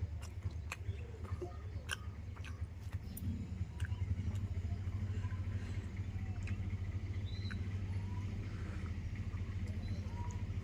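A person chewing and biting food, with sharp crunching clicks mostly in the first few seconds, over a steady low rumble.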